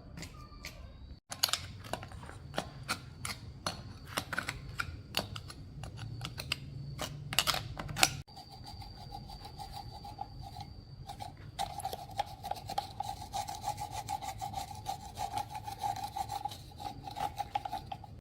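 Hand-tool scraping and rubbing on motorcycle parts: quick, irregular strokes and clicks. In the second half a steady, rapidly pulsing buzz runs with them.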